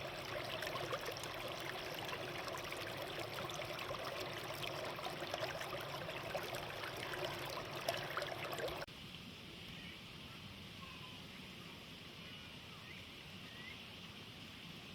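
Water running and trickling, with small crackles and splashes, then cutting off abruptly about nine seconds in to a quieter steady outdoor background with a few faint short chirps.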